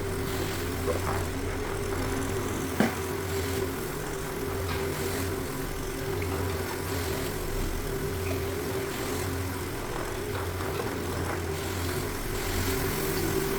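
Orbot orbital floor machine running steadily with a constant motor hum, scrubbing cleaning solution over an engineered hardwood floor to lift residue buildup. There are a couple of faint knocks about one and three seconds in.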